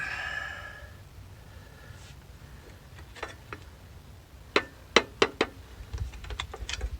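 Several sharp, scattered metallic clicks and clinks of small steel truck parts being handled and set down on a workbench.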